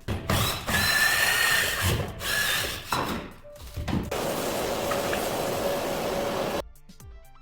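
Handheld power tool, a drill or similar, running in two bursts: a high motor whine for about two and a half seconds, then after a short pause a steadier, noisier run that cuts off suddenly near the end.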